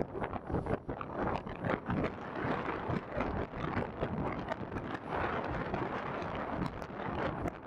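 Strong wind buffeting the microphone in gusts, an uneven rumbling rush.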